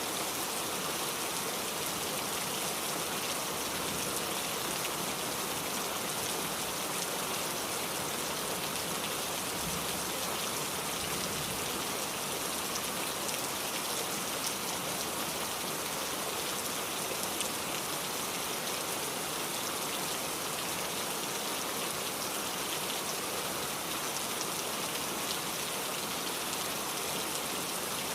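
Steady, even rain falling, with fine pattering of drops on a surface.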